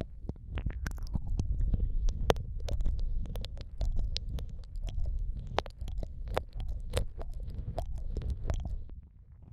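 Wet mouth sounds right against the microphone: quick irregular lip smacks and tongue clicks, several a second, over a low muffled rumble, in the style of ASMR ear eating and ear licking.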